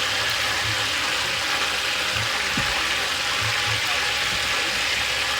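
Chicken pieces deep-frying in hot oil, a steady, even sizzle.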